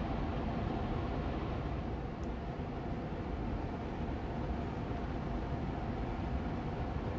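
Austin Air Allergy Machine air purifier fan running steadily on medium speed: an even, low-weighted rushing of air with a faint steady hum from the motor.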